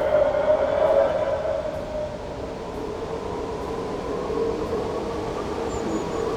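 A steady droning hum with a few held tones that slide slowly lower in pitch about a second in, then hold.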